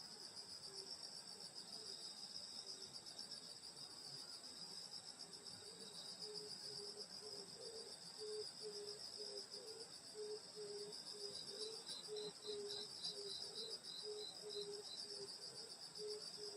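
Night chorus of crickets and other grass insects: a steady, rapidly pulsing high trill, joined in the second half by a short run of separate higher chirps. A low note repeats a couple of times a second from about six seconds in.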